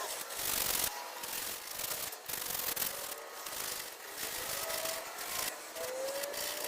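Coarse 40-grit sandpaper rubbed by hand over an oak rocking chair, stripping the old varnish in repeated back-and-forth strokes about a second long, with a faint rising squeak near the end.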